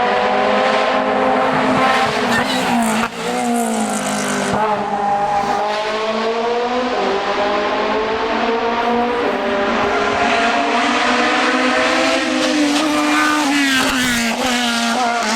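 Race car engine running hard on a hill climb, its pitch rising and falling through gear changes and corners, with a brief drop in sound about three seconds in.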